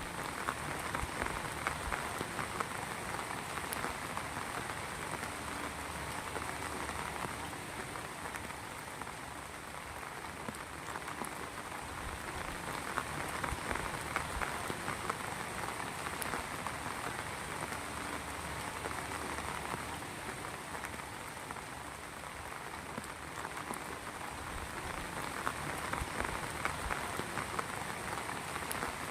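Heavy rain falling steadily, a dense patter of drops on surfaces that swells and eases slightly in strength.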